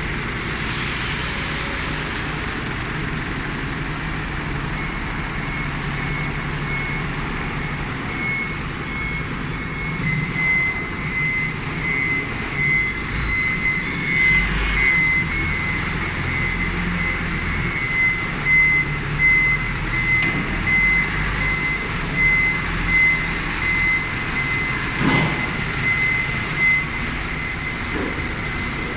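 Forklift engine running with its reversing alarm beeping over and over as it manoeuvres, the beeping starting a few seconds in.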